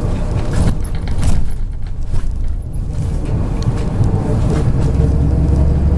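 Cabin sound of a MAZ 103.562 diesel city-type bus on the move: a steady low engine hum with brief rattles early on. The engine note grows stronger about five seconds in.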